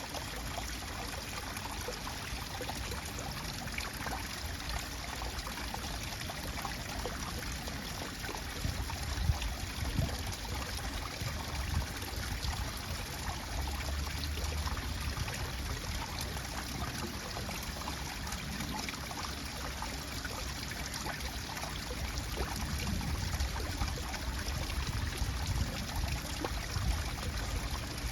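Water flowing in a stream, a steady trickling and rushing with no pauses.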